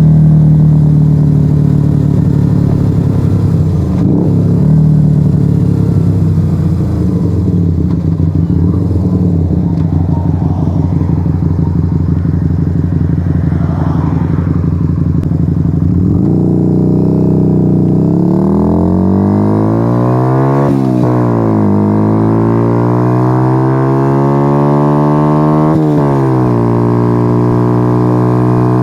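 Yamaha XV125 Virago's small V-twin running loud through a straight-piped Turbo Kit exhaust with no dB killers. It first holds a steady speed. A little past halfway it revs up through the gears, with two gear changes heard as sudden drops in pitch, then settles into a steady cruise.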